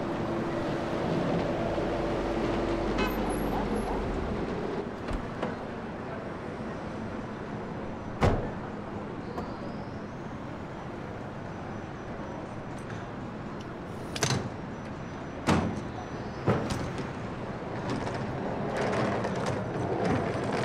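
Vehicle traffic noise, with a handful of sharp door thuds spread through it.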